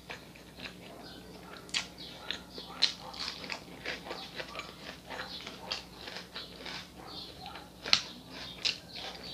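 Close-miked eating sounds: moist chewing clicks and lip smacks from a mouthful of rice, beans and salad, irregular throughout, with a few sharper clicks.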